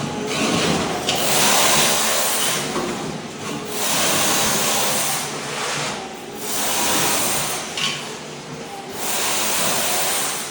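Ride-on floor scraper's blade scraping thin-set mortar off a concrete slab. It comes in four loud, gritty passes of one to two seconds each, with quieter stretches between.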